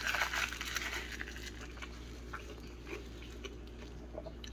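Faint chewing of a mouthful of burrito with the mouth closed: small soft clicks and wet mouth sounds, a little louder in the first second, over a low steady hum.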